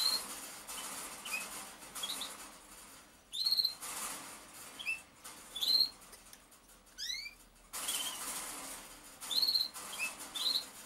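Small birds chirping: short high chirps about once a second, with a quick run of falling notes about seven seconds in, over a scratchy rustling noise that comes and goes.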